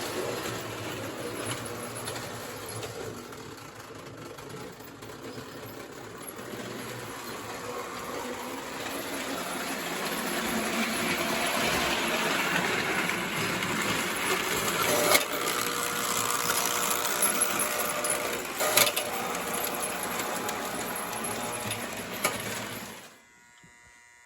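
Prewar O gauge electric toy train running on its track: a steady whirring rumble of motor and wheels that grows louder as it comes closer, with two sharp clicks, then cuts off suddenly near the end.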